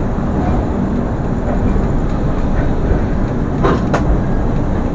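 Shalimar–Visakhapatnam Superfast Express pulling out of a station: steady rumble and clatter of the coaches' wheels on the rails. There is a short sharp clank a little under four seconds in.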